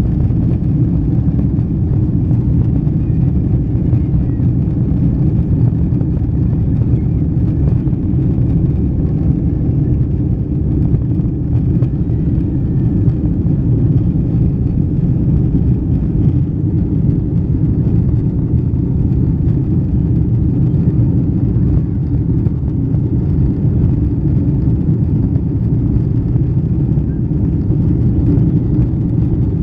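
Steady low roar of a Boeing 777's twin jet engines and airflow, heard inside the rear passenger cabin behind the wing.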